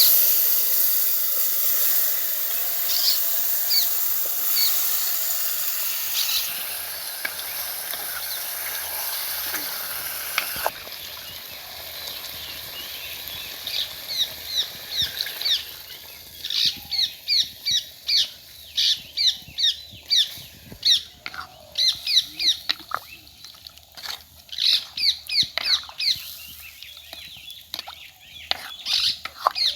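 Birds chirping in quick runs of short, falling notes, dense through the second half. Before that a steady hiss dominates and stops suddenly about eleven seconds in.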